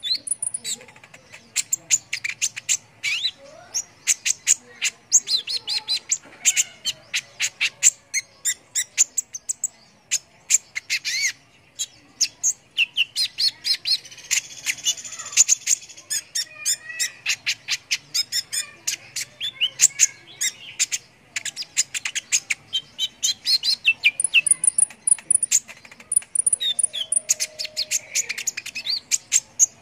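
Small songbirds, led by a kolibri ninja sunbird in full song, giving a rapid, unbroken stream of sharp high chirps and twitters.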